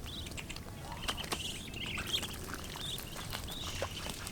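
Birds calling outdoors, a string of short, high, wavering chirps repeated every half second or so over a low background hum.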